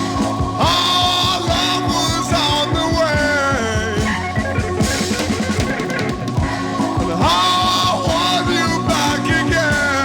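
Instrumental rock passage: a drum kit keeps a steady beat under a lead melody that slides up into a long held note and then winds back down in bends, twice. There is no singing.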